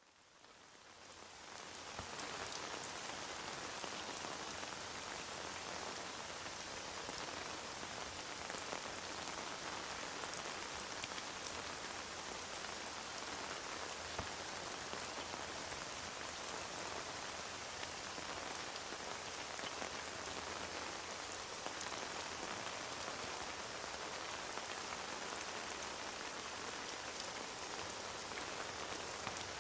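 Steady rain falling on a surface, a dense even patter that fades in over the first couple of seconds and then holds constant.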